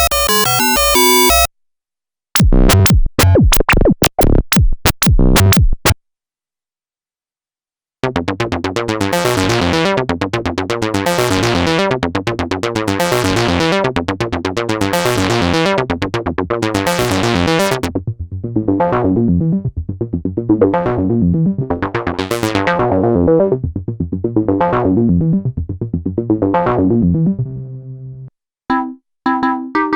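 Korg monologue monophonic analog synthesizer playing its factory preset sequences, recorded straight from its output. A brief pattern and a run of short clicky notes are followed, after a two-second silence, by a long fast sequenced bass line whose filter opens and closes about every two seconds. It ends on a held low note.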